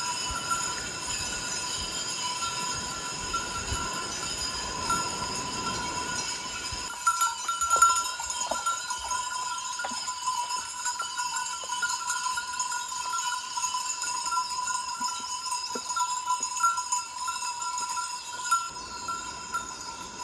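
Bells on grazing livestock clanking and ringing steadily, with scattered knocks.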